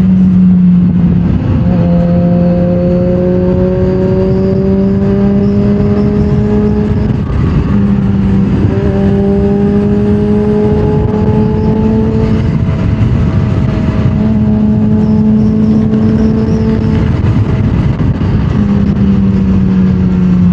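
Kawasaki Z H2's supercharged inline-four engine pulling under way, its pitch climbing slowly in each gear with brief dips at several gear changes, over steady wind noise.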